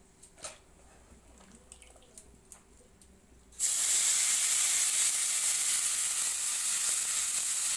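A few faint clicks, then about three and a half seconds in, chopped okra (ladyfinger) goes into hot oil in a wok and a loud, steady sizzling starts at once and keeps going.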